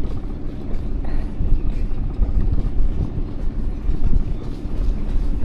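Small boat's outboard motor running steadily underway, a constant low rumble.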